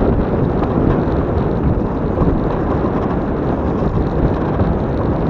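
Steady, loud rumbling of a vehicle, with wind buffeting the microphone.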